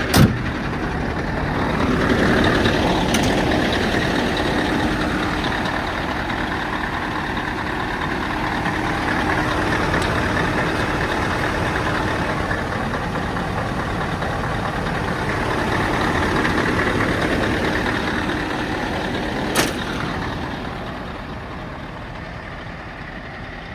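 Scania R730's V8 diesel engine running steadily, its level swelling and easing a couple of times, with a sharp click right at the start and another near the end.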